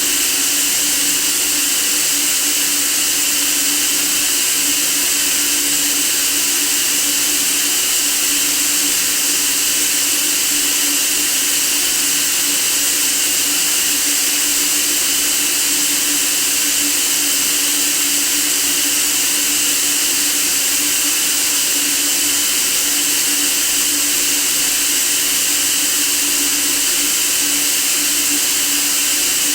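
Steady, unbroken white noise, a bright hiss strongest in the high end, with a faint steady hum underneath.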